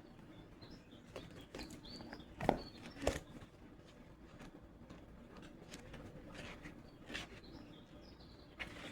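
Faint bird chirps in the background, with a few soft clicks and knocks from handling, the sharpest two about two and a half and three seconds in.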